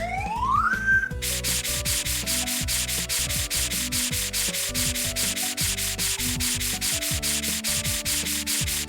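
Cartoon scrubbing sound effect: a rhythmic rubbing, about five strokes a second, starting about a second in over background music, after a short rising whistle.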